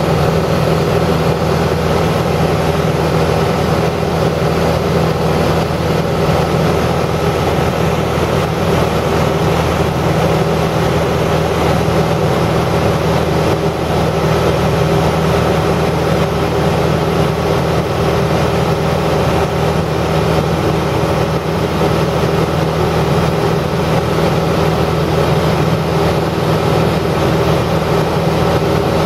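Steady machine drone: a constant low hum with several held tones over a noisy rush, unchanging throughout.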